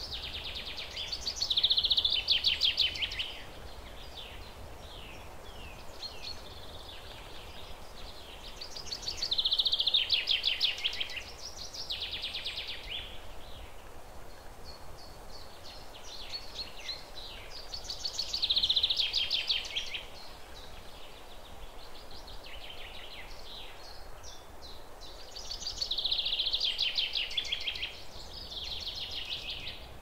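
A songbird singing the same fast trilled phrase, two to three seconds long, four times at intervals of about eight seconds, over steady low background noise.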